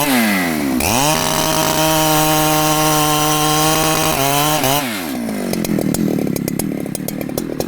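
Large two-stroke Husqvarna chainsaw revving: the engine winds up about a second in to a steady high-pitched full throttle, holds it for about three seconds, then drops to a lower, rougher running with a rapid crackle of clicks.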